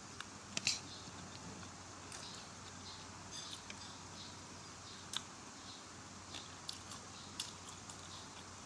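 Someone eating rice porridge (lugaw): scattered short clicks and smacks of eating, the loudest about half a second in, over a faint steady background.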